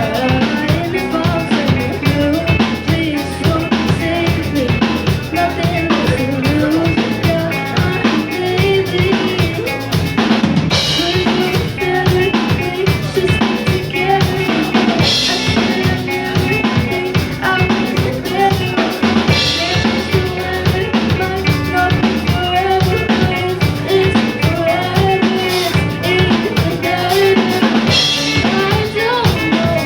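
A live band playing a song, with a full drum kit keeping a steady beat under bass and melodic instruments; cymbal crashes come in every few seconds.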